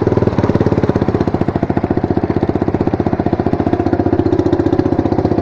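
Yamaha Fazer 250's single-cylinder four-stroke engine idling with a fast, even putter.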